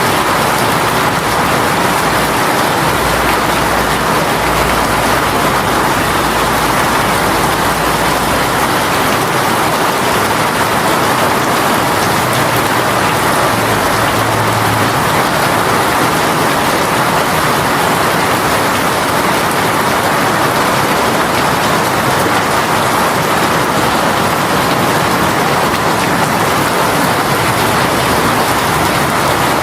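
Heavy rain shower pouring down in a steady, even hiss of countless drops.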